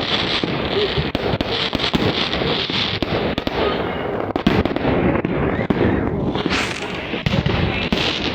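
Fireworks going off in a rapid, continuous string of bangs, pops and crackles, with no break.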